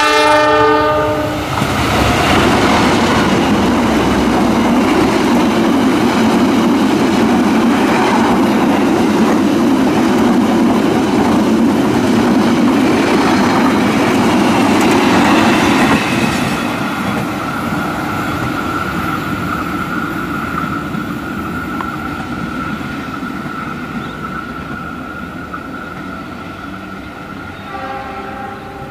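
Diesel locomotive's horn sounding as a passenger train approaches, then the train passing close by with a loud, steady rumble of wheels on the rails. About sixteen seconds in the rumble drops suddenly and then fades away, and a short horn sounds again near the end.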